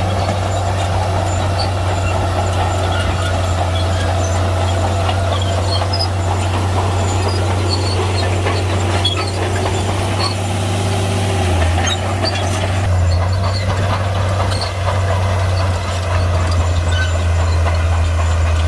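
Heavy bulldozer diesel engine running steadily as a deep, constant drone, with scattered small clicks and clatter over it.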